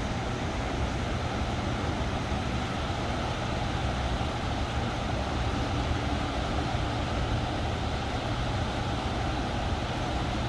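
Steady rushing roar of water pouring through the open gates of a river dam, even throughout with a heavy low rumble.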